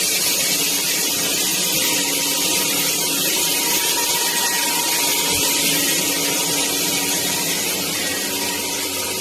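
Bulelink cordless stick vacuum running steadily: an even rushing noise of the suction airflow with a faint steady motor whine.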